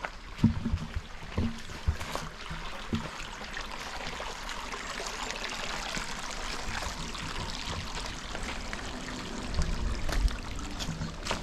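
Steady trickling of flowing water, with scattered low thumps in the first few seconds and a low rumble about ten seconds in.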